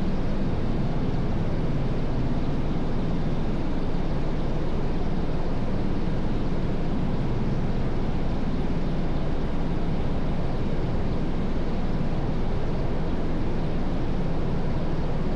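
CH-149 Cormorant (AW101) helicopter running, heard from inside as a steady, even rumbling noise with no clear rhythm or change.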